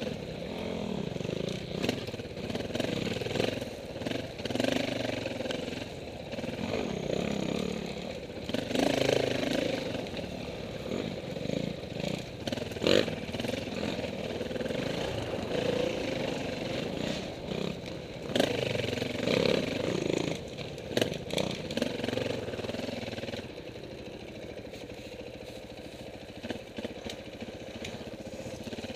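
Off-road motorcycle engine running, its revs rising and falling again and again, with a few sharp knocks along the way; it settles lower and steadier near the end.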